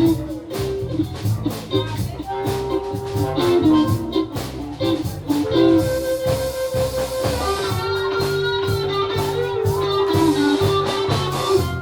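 A blues-rock band's instrumental break: an electric guitar solo with long held and bending notes over a steady bass and drum groove.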